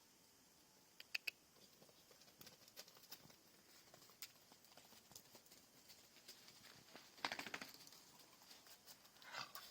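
Faint night ambience: scattered sharp clicks and taps, a short rattling trill about seven seconds in and a higher pulsed trill near the end, over a steady faint high hiss.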